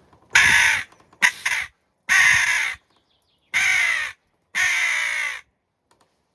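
Hand-blown crow call, the JPPCalls Green Crow model, sounding five hooded-crow caws, the second one short, blown with the tongue rolled against the roof of the mouth.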